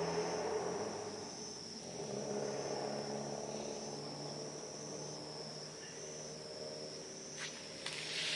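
Crickets trilling steadily and high, with a lower droning sound beneath, and a few sharp crackles from the wood fire near the end.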